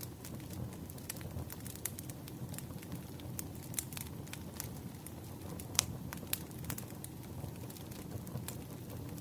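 Wood fire crackling: a steady low rumble of burning logs with frequent sharp pops and snaps, one louder pop a little before the six-second mark.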